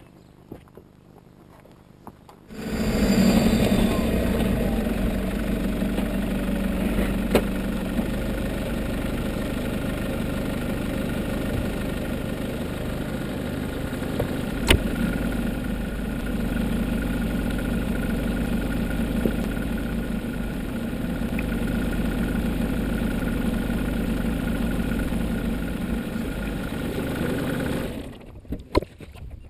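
Nissan Patrol engine starting about two and a half seconds in and then idling steadily, its revs falling as it settles after the start; it stops near the end.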